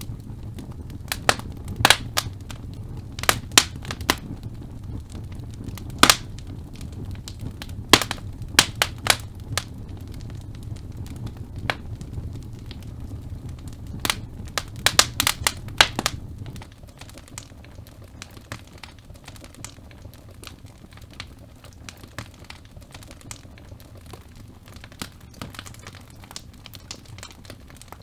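Logs burning in a fireplace, crackling with sharp, irregular pops over a low rumble of flame. A little past halfway the rumble drops away and the crackles become quieter and sparser.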